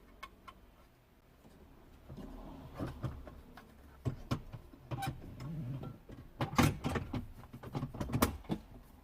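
Scattered clicks and knocks of hard parts being handled as the removed car audio head unit and its dash trim are worked on, starting about two seconds in and loudest about two-thirds of the way through.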